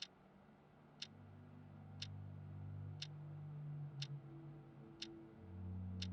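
Quiet, even ticking, one tick a second, over a low sustained drone that swells louder about five and a half seconds in.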